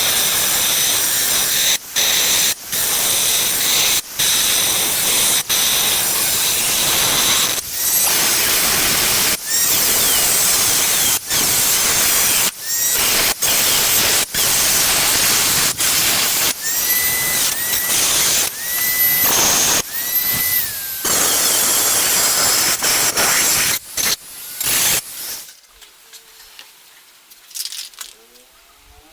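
Paint spraying onto the truck parts: a loud hiss in long bursts cut by many brief breaks, stopping about four seconds before the end.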